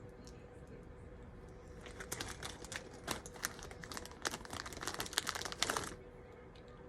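Hands rummaging through loose plastic Lego pieces: a dense run of clicking and crinkling that starts about two seconds in and stops suddenly about four seconds later.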